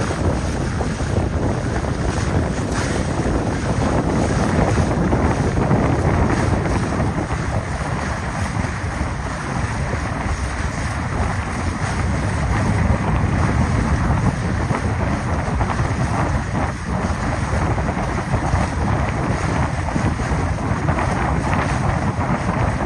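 Steady wind buffeting the microphone over a continuous rush of water, as aboard a boat under way.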